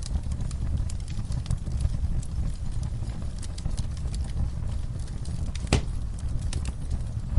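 Wood fire crackling in a fireplace, with scattered sharp pops and one louder pop nearly six seconds in, over a steady low rumble of rainfall.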